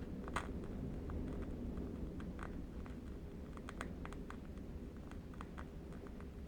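Faint crackle of a burning candle wick: small, irregular clicks and pops, a slightly louder one about half a second in, over a steady low rumble of distant wind.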